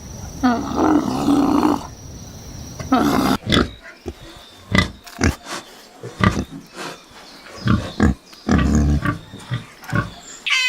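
A drawn-out animal call in the first two seconds, then pigs grunting in a run of short, irregular grunts.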